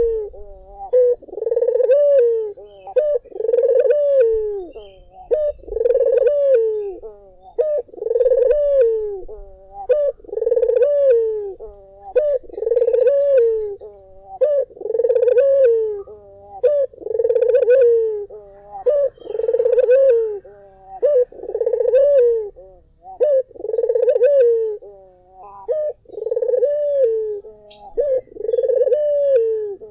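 Puter (Barbary dove) cooing over and over, a short rising-and-falling coo about once a second.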